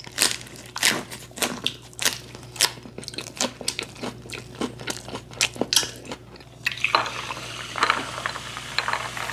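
Close-miked crunchy chewing of a mouthful of kimchi wrap, sharp wet crunches about twice a second. About seven seconds in, carbonated Singha soda water is poured into a glass, a steady fizzing hiss.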